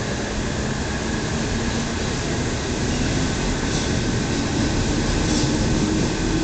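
Local electric train heard from inside the passenger cabin, running steadily through a tunnel: a continuous rumble of wheels and running gear. A faint motor whine rises slowly in pitch and the overall noise grows a little louder as the train picks up speed.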